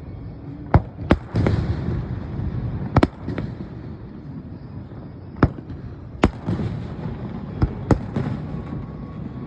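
Aerial fireworks bursting: about eight sharp bangs at irregular intervals, several followed by a rumbling crackle that dies away over a second or so.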